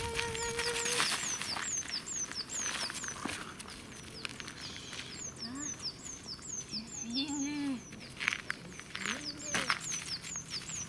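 A small songbird repeating a high, quick, falling chirp about three times a second in long runs. A woman's voice calls briefly a few times, with light crunches and clicks on gravel.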